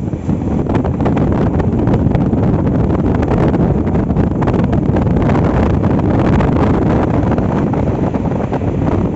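Steady low rumble of a moving passenger train, with wind buffeting the microphone.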